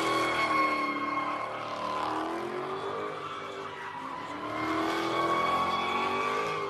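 Car engine revving in slow swells, rising and falling, while its tyres squeal steadily.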